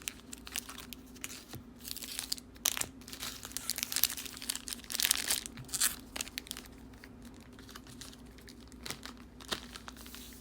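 Foil trading-card pack wrappers crinkling and rustling as the packs are handled and shuffled into order, with light clicks and taps. The handling is busiest in the middle and thins out toward the end.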